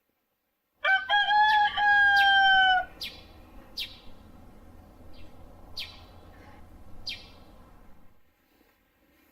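A rooster crowing once, about a second in: a loud two-second cock-a-doodle-doo ending in a long, slightly falling note. Several short, sharp, high sounds follow over the next few seconds.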